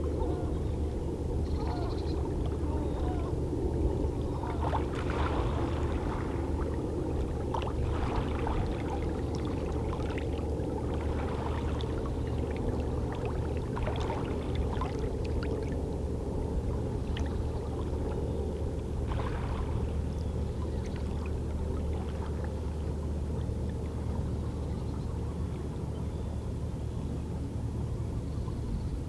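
Small waves of a calm sea lapping and splashing against shoreline rocks: a steady low wash of water with scattered irregular splashes.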